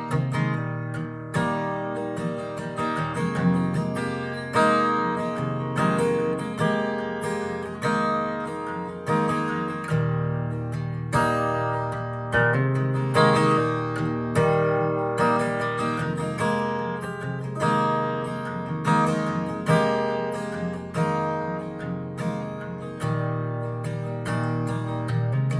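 Acoustic guitar strumming chords in an even rhythm, with no singing.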